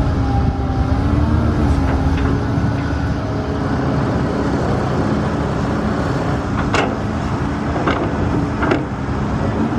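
Diesel engine of heavy construction machinery running steadily, with several sharp metallic clanks in the second half.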